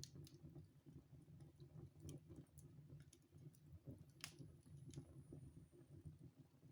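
Wood fire crackling in a fireplace: faint, irregular sharp crackles and pops, one stronger crack about four seconds in, over a low steady rumble.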